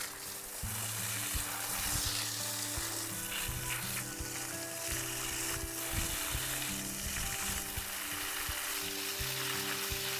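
Food sizzling as it fries in a pan: a steady crackling hiss, with background music playing under it.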